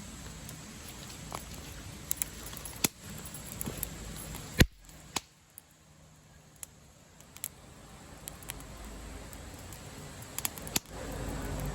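Wood campfire crackling, with scattered sharp pops and one loud pop about halfway through.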